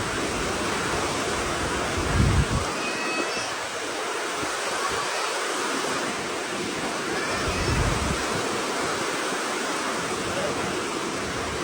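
Heavy rain falling in a steady, even hiss, with wind buffeting the microphone twice, about two seconds in and again near eight seconds.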